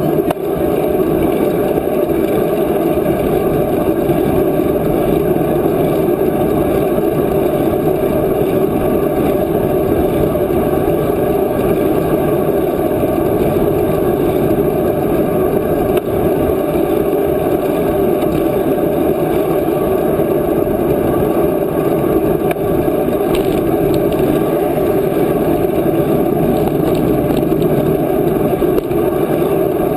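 Steady rushing noise of wind and movement on the microphone while riding a bicycle.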